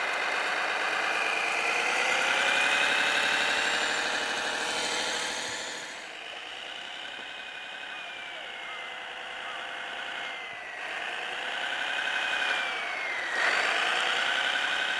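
Simulated diesel engine sound from a Servonaut SMX sound module in a Kyosho Blizzard RC snow groomer, its pitch rising and falling with the throttle, under a high whine that glides up and down. It runs quieter about six seconds in and picks up again near the end.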